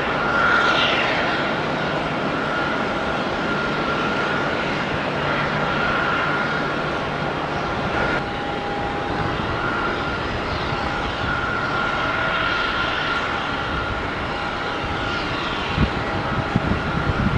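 Jet airliner's engines running with a steady noise and a high whine. There are a few short low thumps near the end.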